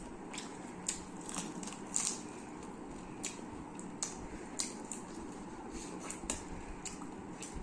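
Close-miked eating sounds: chewing and crunching food eaten by hand, with sharp wet clicks and smacks every half second to a second over a steady low hiss.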